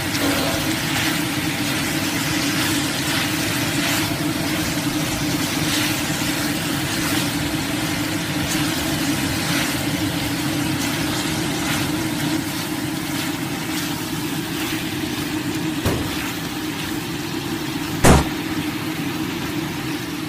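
Chicken pieces sizzling in a wok as the coconut-water braise cooks down dry, over a steady low hum. Wooden chopsticks scrape and tap the wok now and then, with one sharp knock about 18 seconds in, the loudest sound.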